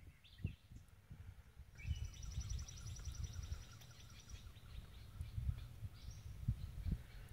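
A songbird trilling, a rapid run of high notes lasting a couple of seconds and then a shorter trill near the end, over low rumbling wind buffeting on the microphone.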